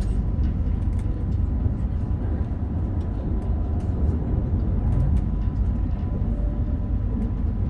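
Meitetsu Panorama Super limited express train running at speed, heard from inside the car: a steady low rumble of wheels on rail with scattered light clicks and a faint steady high tone.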